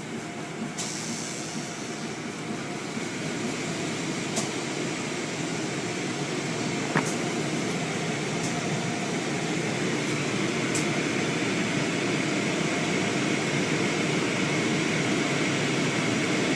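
Automatic car wash machinery running, a steady rushing noise that grows gradually louder, with a few faint clicks.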